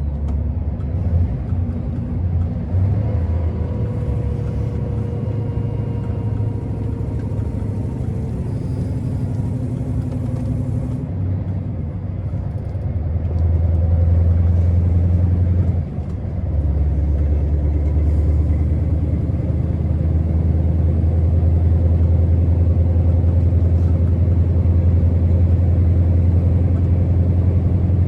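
Scania R650 truck's V8 diesel engine running steadily on the road, a low, even hum. It gets louder about halfway through, drops briefly a couple of seconds later, then holds steady.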